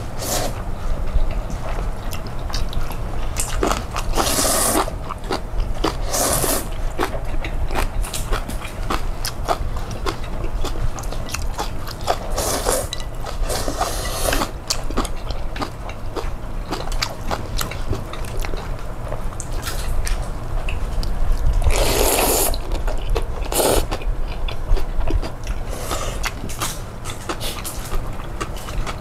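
Close-miked eating sounds: chewing and biting through cold bean-soup noodles (kongguksu) and kimchi, with many small wet clicks and a handful of louder noisy bursts spread through.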